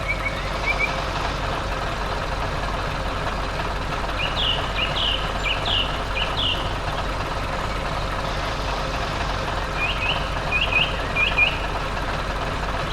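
A large farm machine's engine running steadily, with small birds chirping in short bursts over it, twice in clusters of quick chirps.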